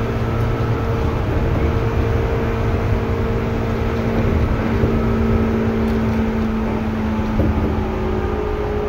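Seibu 2000 series electric train running at a steady pace: a continuous rumble of wheels on rail with a level hum from the traction motors and gearing.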